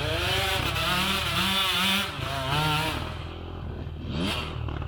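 Enduro dirt bike engine revving up and down, its pitch rising and falling repeatedly as the throttle is worked, with a quick rising rev near the end.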